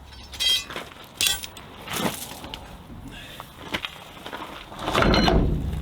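A few sharp metallic clinks and knocks of hand tools and hardware, then a longer, louder clatter about five seconds in.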